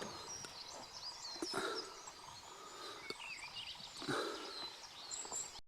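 Small woodland birds chirping, with many short scattered calls, and a couple of soft rustles about a second and a half in and again near four seconds.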